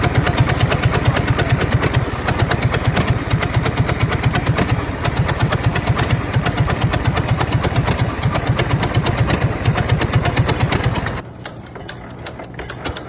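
Old tractor engine running with fast, even firing pulses, which drop sharply to a much quieter low hum about eleven seconds in. The engine was being worked on for spark plug and firing-order problems, having run on only two cylinders.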